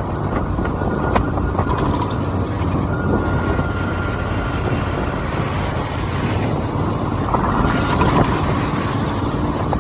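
Steady rumble of a motorcycle riding at highway speed, engine and road noise mixed with wind on the microphone, with two brief hissy flares, one about two seconds in and one near the end.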